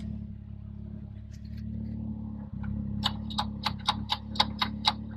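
Can-Am Maverick X3 Turbo R's three-cylinder turbo engine idling steadily in limp home mode, set off by misfires. About three seconds in comes a quick run of about ten sharp clicks, roughly five a second.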